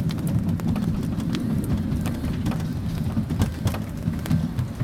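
A small ride-on park train running, heard from on board: a steady low rumble with frequent small clicks and rattles.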